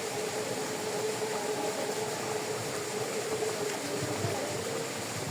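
Steady rush of a mountain stream, with a steady held tone running through it that fades out about four and a half seconds in.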